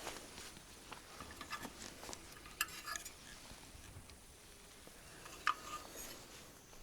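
Scattered light clinks and taps of small hard objects being handled, with one sharper click about five and a half seconds in.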